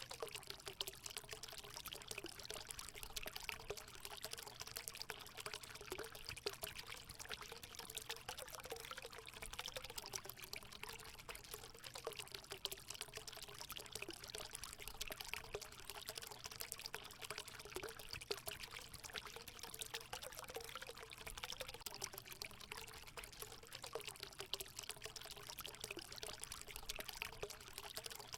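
Natural spring water running and trickling steadily into a hot spring pool, an unbroken pouring sound with a faint bubbling ripple.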